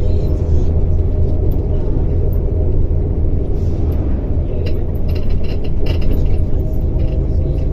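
Simulated MAZ-105 city bus driving, its diesel engine giving a steady low rumble. A few light rattling clicks come in about two-thirds of the way through.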